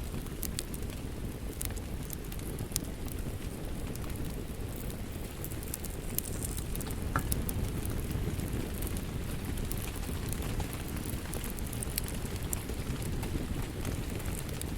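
Wood fire crackling with sharp, scattered pops over a steady rain ambiance and a low, even rumble.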